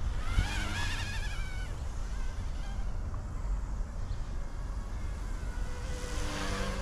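Micro electric RC helicopter hovering and manoeuvring, its motor and rotor whine wavering in pitch, louder early on and again near the end. Low wind noise rumbles on the microphone underneath.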